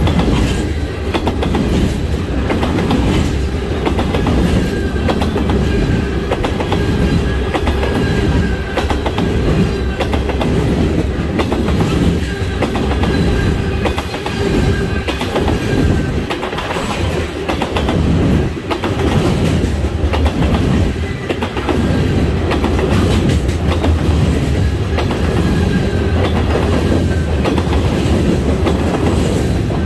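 Manifest freight train's tank cars and covered hoppers rolling past close by. The steel wheels clack steadily over the rail joints above a continuous rumble.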